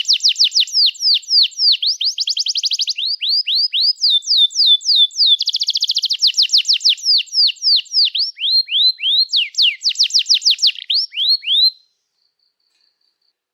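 Canary singing a long, loud song of rapid, repeated falling chirps strung into fast trills. The song breaks off abruptly near the end.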